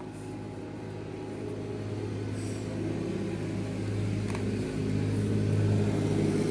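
An engine or motor running at a steady pitch, its hum slowly getting louder, with a faint tap about four seconds in.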